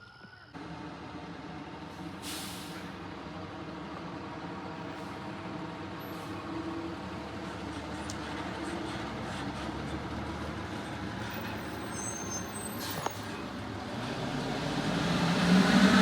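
Fire engine's diesel engine running steadily, with a brief air-brake hiss about two seconds in and a sharp click near the end; the engine grows louder over the last couple of seconds.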